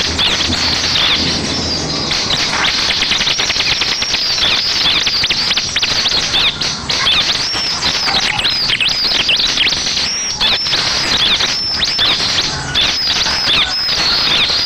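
Bar-winged prinia (ciblek) song: a fast, unbroken run of high, hooked chirping notes repeated over and over. It is a lure recording played to provoke a caged ciblek into answering and singing.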